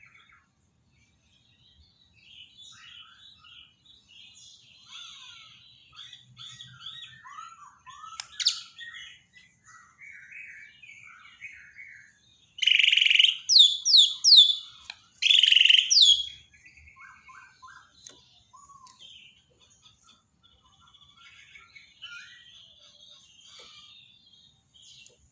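White-rumped shama (Bornean murai batu) singing: soft, varied twittering and whistled notes throughout, with a loud run of phrases made of sharp downward-sweeping notes about halfway through.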